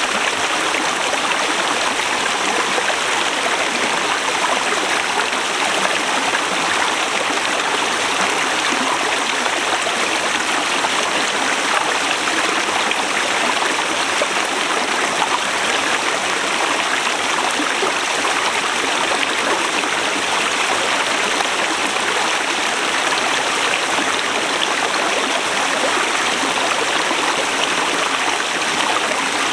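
Forest river rushing steadily over rocks, an even, unbroken sound of flowing water.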